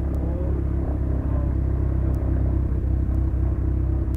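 Beechcraft Duchess piston aircraft engine running steadily just after start, a constant low-pitched drone with no change in speed.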